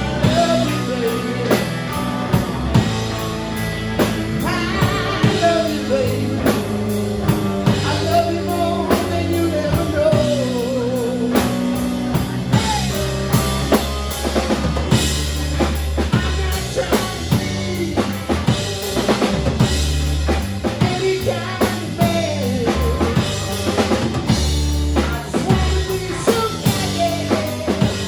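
Live rock band playing an instrumental break between verses: drum kit with snare and bass drum, bass guitar, and a melodic lead line bending up and down in pitch.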